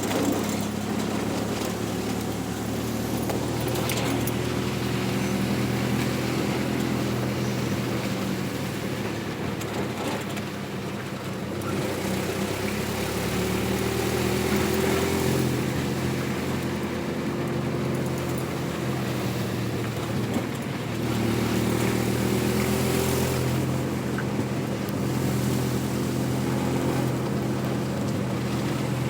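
Vehicle engine running steadily while driving on a road, with road noise. The engine note shifts twice, about twelve and twenty-one seconds in.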